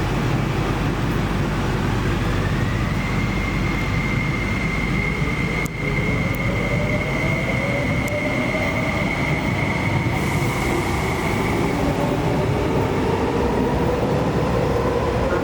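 MTR SP1900 electric train pulling away from a station platform, its traction motors whining over steady rolling rumble. A high whine climbs in the first few seconds and then holds level, while a lower tone keeps rising as the train picks up speed.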